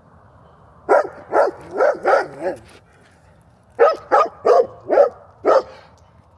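A dog barking in two quick volleys of about five barks each, with a short pause between them.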